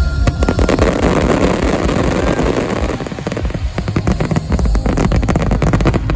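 Fireworks going off in quick succession: a dense crackling hiss for the first couple of seconds, then a rapid run of sharp bangs.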